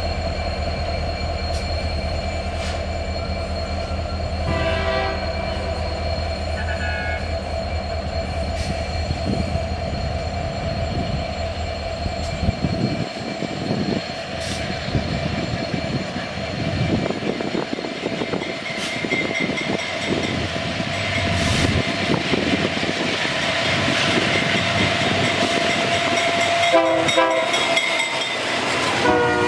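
Freight train passing, hauled by a diesel-electric locomotive: a steady engine hum gives way to the rolling noise of the wagons on the rails. The horn sounds briefly about five seconds in and again near the end.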